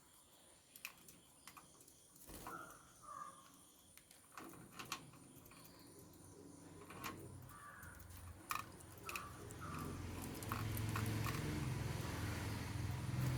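African lovebirds giving short, scattered chirps among many sharp clicks and taps. A low steady hum comes in about a third of the way through and grows louder near the end.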